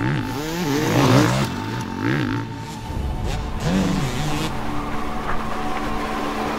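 Motocross bike engine revving up and down several times in quick succession, fading after about four seconds, over a music track.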